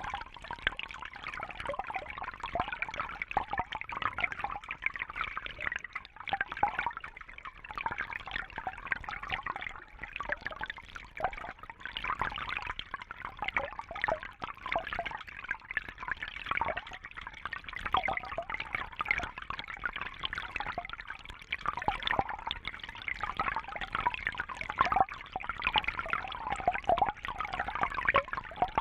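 Water trickling and bubbling steadily, a dense patter of small splashes with no pause.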